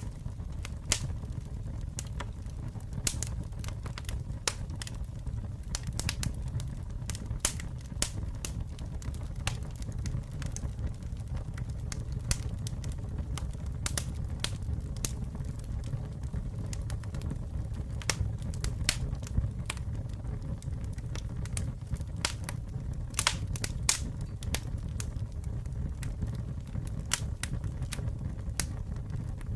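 Campfire burning with a steady low rumble and frequent irregular sharp crackles and pops of burning wood.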